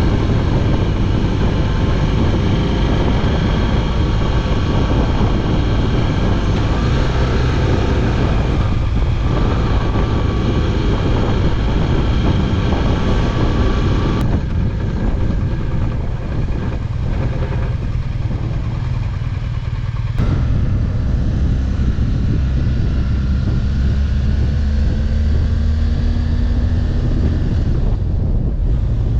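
BMW R1200GS Adventure boxer-twin motorcycle engine running steadily under way, mixed with wind rush. The engine eases off briefly around the middle, then its note climbs slowly later on.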